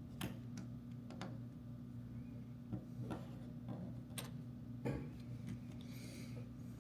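A handful of light, separate clicks and taps over a steady low hum, with a brief soft rustle near the end.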